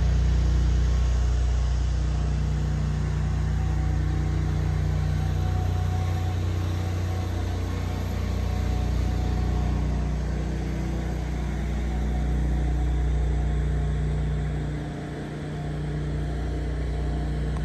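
2016 Ford F-350's 6.2-litre gasoline V8 running steadily at idle, a low hum that swells and eases slightly, with a brief dip about fifteen seconds in.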